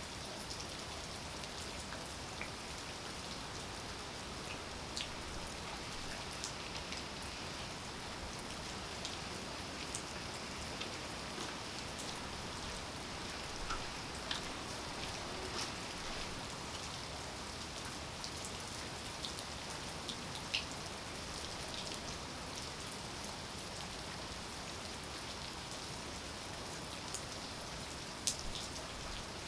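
Steady rain falling, with the sharp ticks of single drops striking close by scattered through it.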